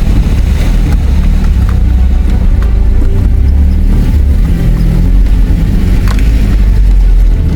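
Car driving along a rough dirt track: a steady, loud, low rumble of engine and tyres, with a few short knocks and rattles, the clearest about six seconds in.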